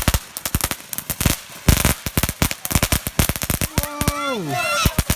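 Firecrackers going off in a rapid, irregular run of sharp bangs.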